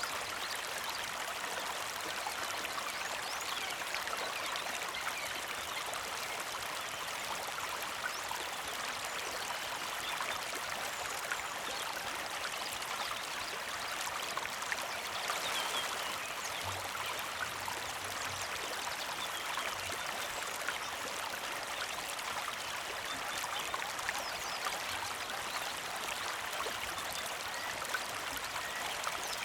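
A small creek flowing steadily, an even, unbroken trickle and rush of water.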